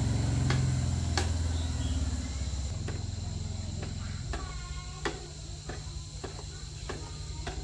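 Steady high insect drone over a low motor hum that changes pitch about four seconds in, with scattered sharp knocks and clicks.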